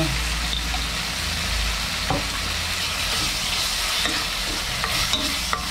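Garlic, onion and crushed tomato with a spoonful of shrimp paste sizzling in hot oil in a pan as it is stirred. The sizzle is steady, with a couple of light knocks.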